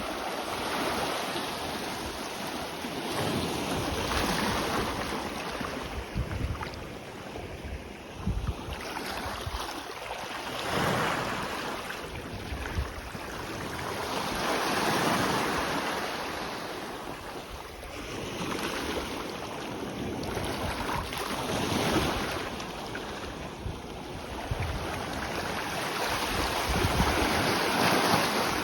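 Small sea waves breaking and washing up the shore, the surf swelling and fading every few seconds, with wind gusting on the microphone now and then.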